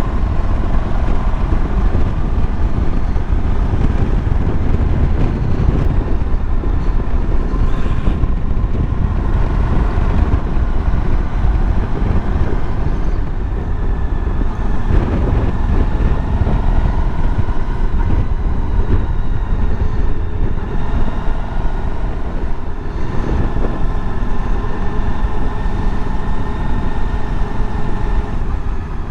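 Suzuki V-Strom DL1000's V-twin engine running under way, its note rising and falling with the throttle, under a heavy low rumble of wind on the microphone.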